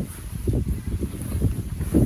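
Strong wind buffeting the microphone in irregular low rumbling gusts.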